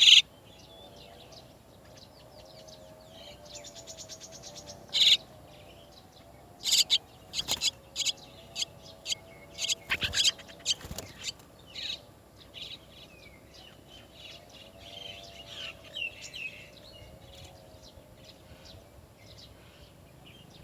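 Chestnut-tailed starlings calling: a string of short, loud, sharp calls, crowded most thickly a third to halfway through, with a brief fast rattle just before them.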